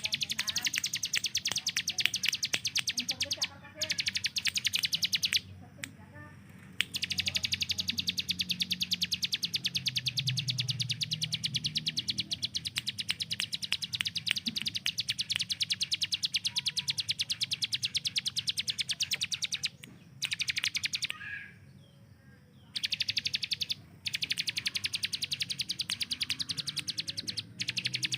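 Ciblek gunung (a prinia) giving its rapid-fire 'tembakan' call: long runs of very fast, sharp repeated notes, broken now and then by short pauses.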